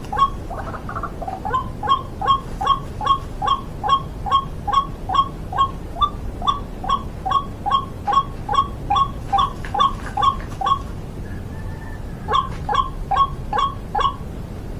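White-breasted waterhen (ruak-ruak) giving its monotonous repeated call: a rhythmic run of short two-part notes, about two to three a second. The calls break off for over a second near the end, then a few more follow.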